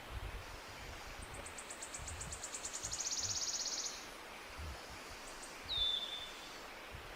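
Songbirds singing: a fast, high trill of rapidly repeated notes lasting nearly three seconds, then a short down-slurred whistle about six seconds in, the loudest call. Beneath them runs a steady outdoor hiss with faint low rumbles.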